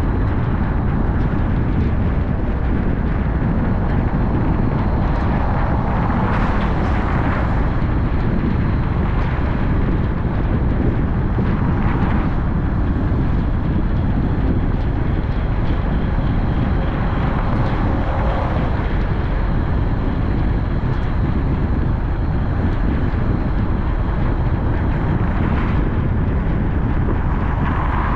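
Steady road and engine noise of a car being driven, mostly a low rumble, with a few brief swells of louder noise along the way.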